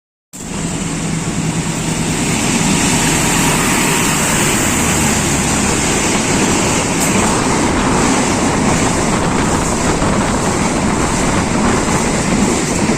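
A train passing close by: a loud, steady rumble and rush of noise that builds over the first two seconds, with a low engine hum in the first half, cut off abruptly at the end.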